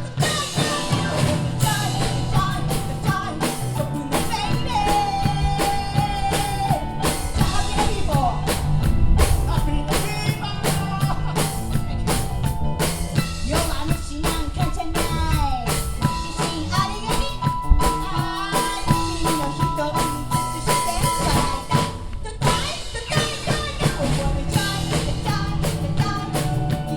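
A live pop-rock band playing a song: a drum kit keeps the beat under bass and held melody notes, with singing.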